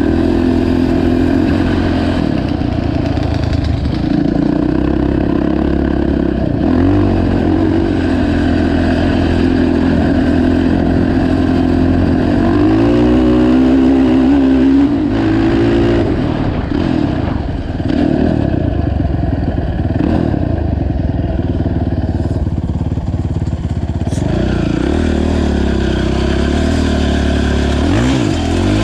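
Honda TRX450 quad's single-cylinder four-stroke engine running while riding. The pitch rises as it is revved about halfway through, then falls back and dips briefly before settling to a steady pull.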